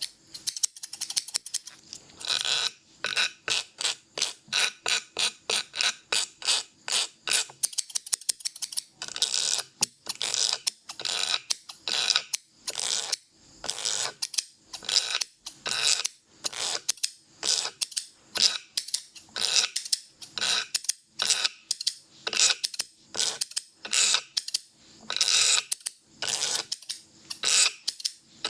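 Barber's scissors snipping hair in rapid strokes: a steady run of sharp metallic snips, very fast in the first seconds, then in quick clusters about twice a second.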